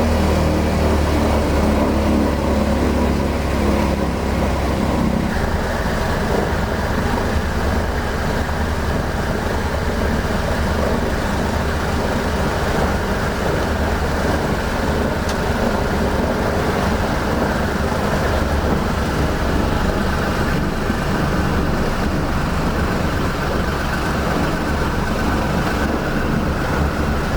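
The Pratt & Whitney R-2800 radial piston engines of a Douglas DC-6 running steadily on a ground engine test run, heard from inside the cockpit. The engine note shifts slightly about five seconds in.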